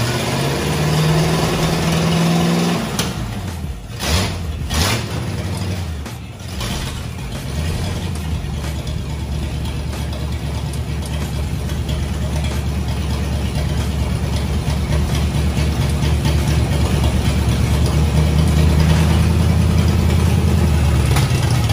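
Ford flathead V8 running after being brought back to life from a long spell sitting dry, fed only by gasoline poured into the carburetor bowl. It runs roughly for the first few seconds, with a few sharp knocks around four to five seconds in, then settles into a steady run that grows a little louder toward the end.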